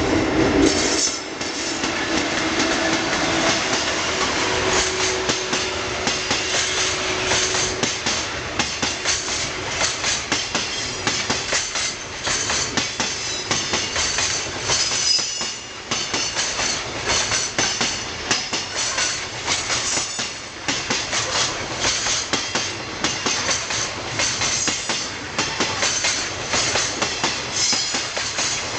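Freight train passing, its wagon wheels clattering rapidly over the rail joints in a continuous rhythm, with a steady hum for the first several seconds.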